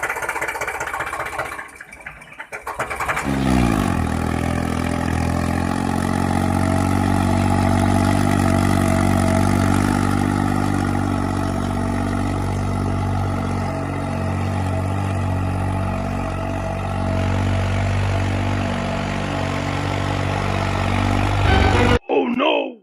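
An engine starting up, rising in pitch about three seconds in, then running steadily at idle before cutting off suddenly near the end.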